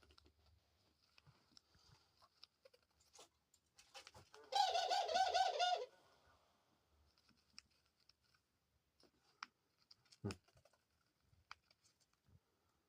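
A pet dove gives one wavering, trilling call lasting just over a second, about four and a half seconds in. Faint scattered clicks surround it.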